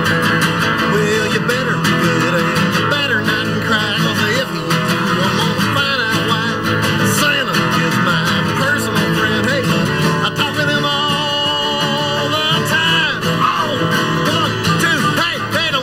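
A band playing live, with strummed guitars and singing.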